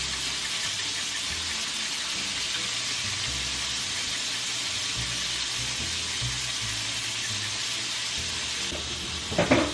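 Cubes of extra-firm tofu sizzling steadily in hot oil in a frying pan.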